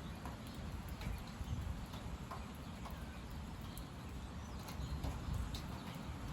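Strong gusty wind blowing through tall trees, with a low rumble of wind buffeting the microphone that rises and falls, and a few faint short ticks scattered through it.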